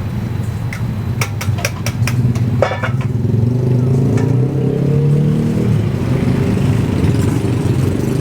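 Motorcycle engine running close by, getting louder about three seconds in and then holding steady. A few sharp clicks come before it.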